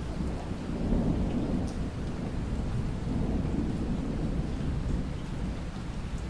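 Steady rain during a thunderstorm, with a low rumbling of thunder underneath that swells a little about a second in and again around the middle, and a few faint drop ticks on top.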